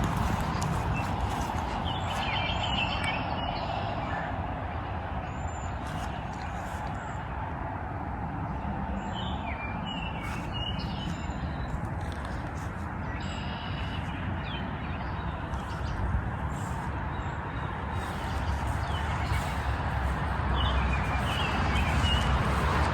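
Wild birds chirping in short scattered phrases over a steady rushing background noise.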